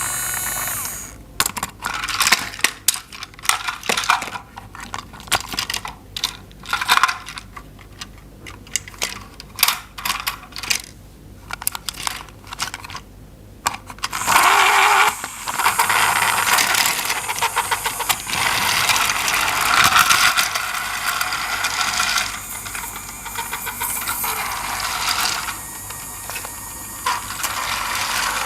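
Small plastic toy parts clicking and clacking as they are handled, then about halfway through a steady mechanical whirr with a gear rattle, like a battery-powered toy train running.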